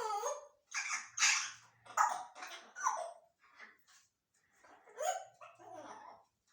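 A series of short, harsh bark-like calls: about six in quick succession, then two more about five seconds in.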